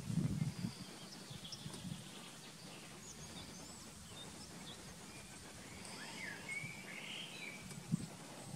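Outdoor ambience with small birds chirping, several short high calls scattered through and a longer curving call a little past the middle. Brief low rumbles come in at the start and again near the end.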